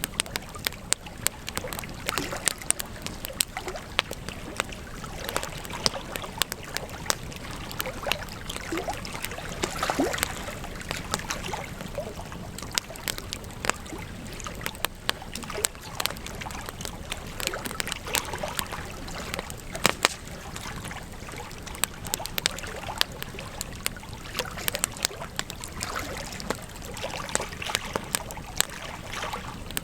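Campfire crackling: frequent irregular sharp pops and snaps over a steady hiss of burning flames, with a few louder snaps.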